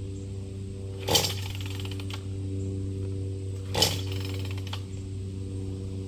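Gas chainsaw engine running steadily at idle, with two short bursts of louder noise about a second in and again a little under three seconds later.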